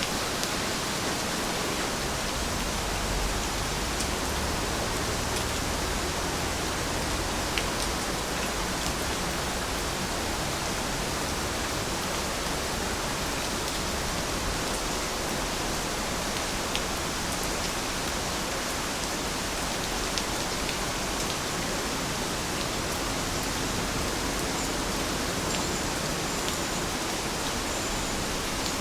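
Heavy rain falling steadily: a dense, even hiss with a few sharper drop ticks here and there.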